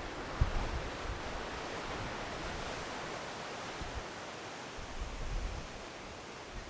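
Ocean surf washing on the shore as a steady hiss, with light wind buffeting the microphone now and then.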